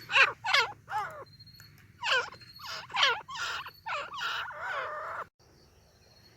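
Grey francolin calling, a rapid run of loud repeated notes that bend up and down in pitch. The calls cut off suddenly a little over five seconds in, leaving a faint high insect trill.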